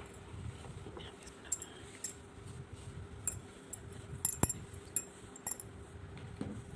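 A utensil clinking against a mixing bowl while stirring thick cake batter: a series of irregular light clinks, with the sharpest ones a little past the middle.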